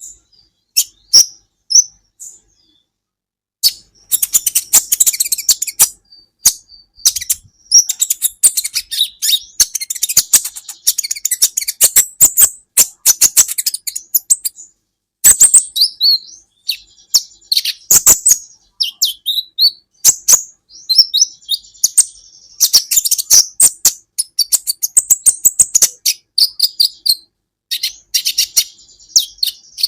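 Kolibri ninja sunbird singing a fast, high-pitched twittering song of sharp chips and short trills, almost without a break. The song pauses briefly about two seconds in.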